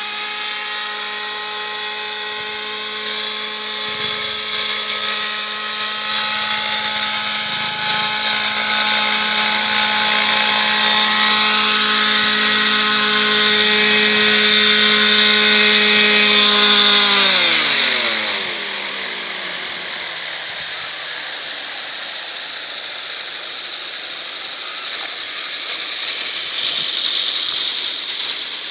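Trex 700 Pro RC helicopter with its Zenoah 26cc gasoline engine running steadily at flight speed, then about 17 seconds in the engine and rotor wind down, the pitch falling sharply until the sound dies away a few seconds later. A steady hiss remains afterwards.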